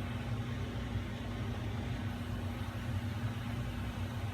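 Steady low machine hum with a background hiss, even throughout.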